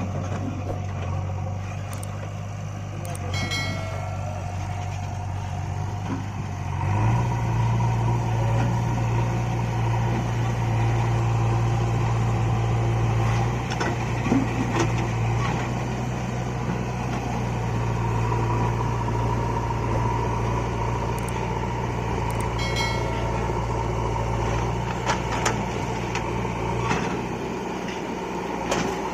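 Heavy diesel engine running steadily. About seven seconds in it speeds up and gets louder, as under load or working revs, then settles back toward idle near the end. A few faint metallic clinks come over it.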